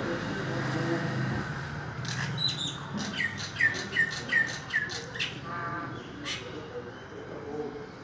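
A bird calling outdoors in a quick run of sharp chirps, each dropping in pitch. The chirps start about two seconds in and stop a little past the middle, with one more call shortly after.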